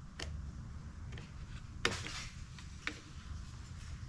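A few light clicks and taps of small blower parts being handled while the throttle cable is fitted into its slot, the sharpest about two seconds in, over a low steady hum.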